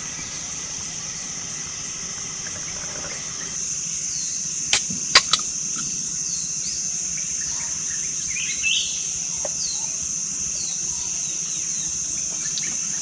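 Forest ambience: a steady high-pitched insect drone with short, repeated falling chirps and a brief bird call. About five seconds in come three sharp clicks close together, the loudest sounds.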